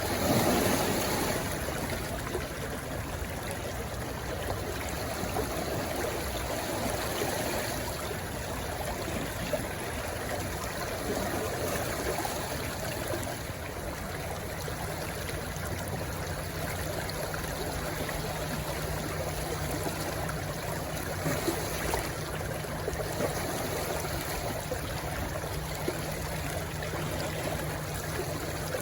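Stream water rushing and trickling steadily, with a brief louder surge at the start. A faint, steady low hum joins about halfway through.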